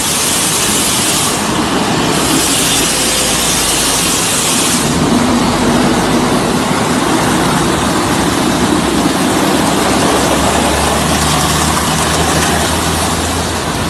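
A motor vehicle running: a steady rushing noise with a low engine hum that becomes more prominent in the second half.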